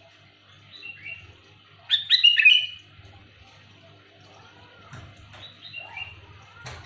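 Sooty-headed bulbul (kutilang) calling loudly: a burst of quick, bright chirping notes about two seconds in, with softer calls before and after it. A faint steady low hum runs underneath.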